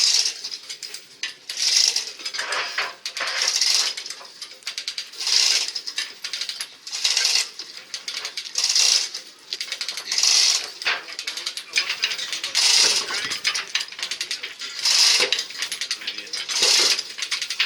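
Repeated metallic rattling and scraping strokes, about one every one and a half to two seconds, as from a hand tool or lever being worked over and over.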